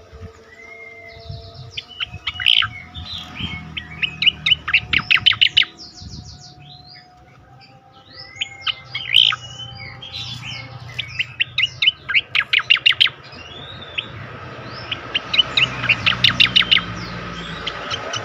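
Sooty-headed bulbul (cucak koreng) singing: short chirps and whistles broken three times by rapid runs of sharp notes, about eight a second, the 'tembakan' bursts.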